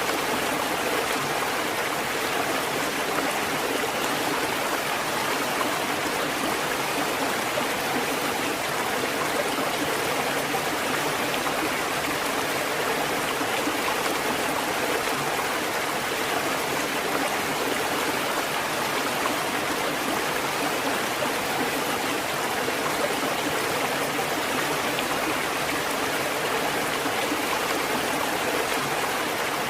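Water fountain running, a steady, even splashing flow of water with no knocks or breaks.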